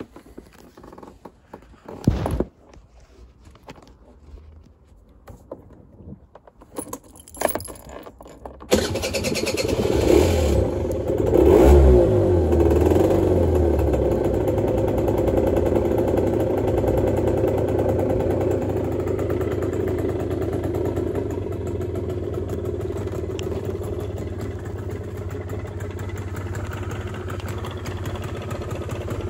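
A few clicks and knocks, then about nine seconds in the 2002 Piaggio Liberty 50's single-cylinder two-stroke engine starts, is revved up and down a few times, and settles into a steady idle.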